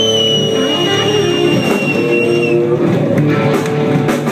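Live country-rock band playing, guitars to the fore, with a high held note that ends about two and a half seconds in.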